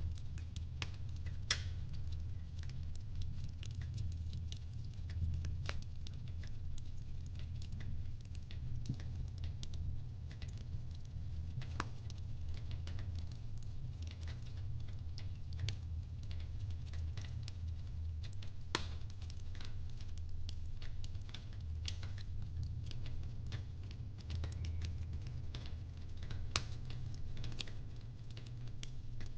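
Fireplace crackling: a steady low rumble from the fire with irregular sharp pops and snaps scattered throughout.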